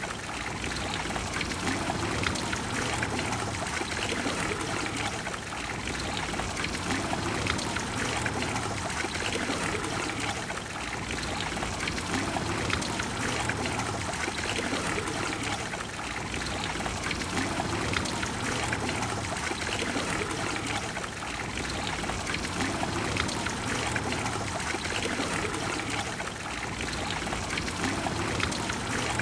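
Water from the Trevi Fountain splashing and pouring steadily into its basin.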